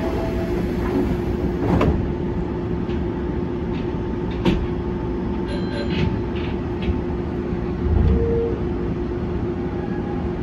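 Semboku Rapid Railway 5000 series electric train standing at a platform, heard from inside the cab: its onboard equipment makes a steady hum. A few sharp clicks come through, with a brief low rumble about eight seconds in.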